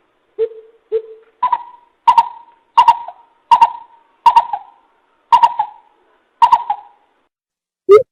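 Coucal (bìm bịp) calling a series of deep hooting notes, about nine in all. The first two are low, the rest are pitched higher from about a second and a half in, and the gaps between them grow longer toward the end.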